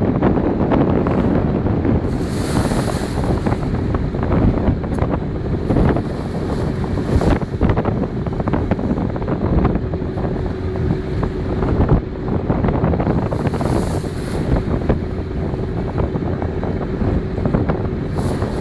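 Wind buffeting the microphone at sea, with waves washing and a faint steady hum underneath. A few brief hissing rushes of water break through, about two seconds in and twice near the end.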